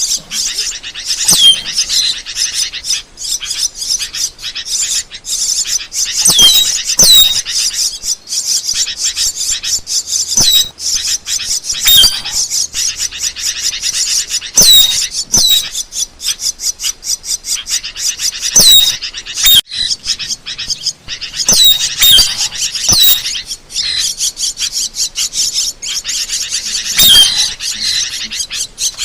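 Asian glossy starling calls: a continuous stream of fast chattering clicks and squeaks, broken every second or few by sharp, high whistles that fall steeply in pitch.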